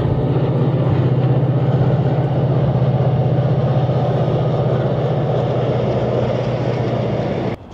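Passenger train running along a railway viaduct at a distance: a steady low rumble that stops abruptly near the end.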